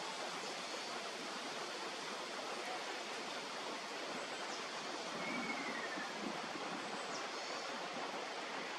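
Steady rush of flowing water, like a stream or small weir. A few faint high chirps sound over it, and a short falling whistle comes about five seconds in.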